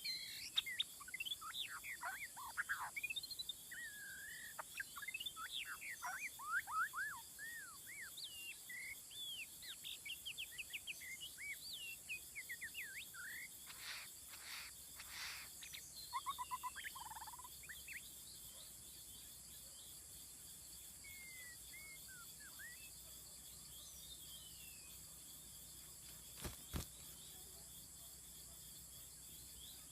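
White-rumped shama (murai batu) singing a fast, varied run of whistled sweeps and chirps that dies away about two-thirds of the way through, over a steady high insect drone. A single sharp click sounds near the end.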